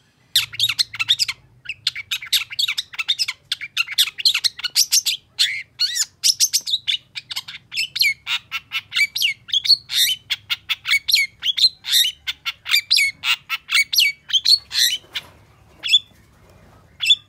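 Long-tailed shrike singing a fast run of short, sweeping high notes, about four a second, thinning to a few separate notes near the end.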